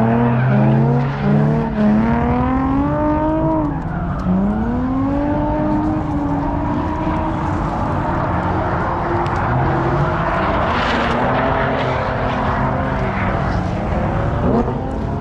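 Car engines revving at a drift pit, their pitch climbing and falling again and again over a steady low engine drone, with a stretch of broader, hissier noise about two-thirds of the way through.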